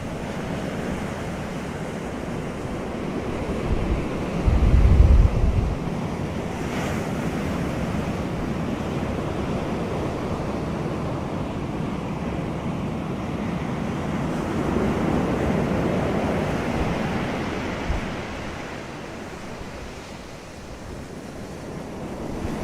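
Wind blowing, a steady rushing that swells and fades, with a low rumble of wind buffeting the microphone about five seconds in.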